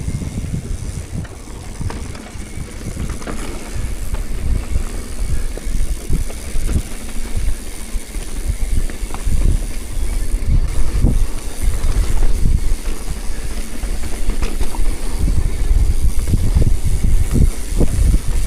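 Wind buffeting the microphone while on the move: a loud low rumble that rises and falls in uneven gusts.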